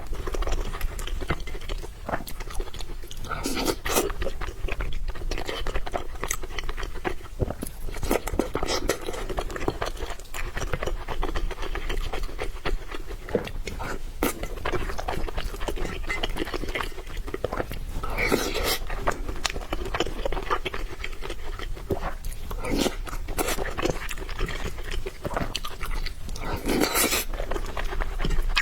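Close-miked chewing and eating of noodles: continuous wet mouth clicks and smacking, with a few louder, longer sounds about ten seconds apart.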